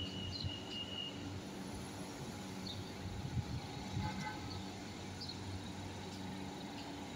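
Marmaray electric commuter train at the platform with its steady electrical hum. A high warning tone sounds during the first second as the doors close, and there are a few light knocks.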